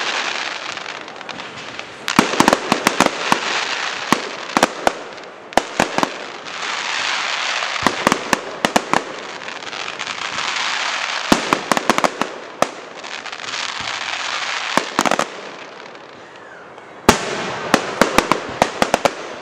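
Fireworks display: volleys of sharp bangs and cracks arriving in clusters every few seconds, with a steady hiss filling the gaps between them.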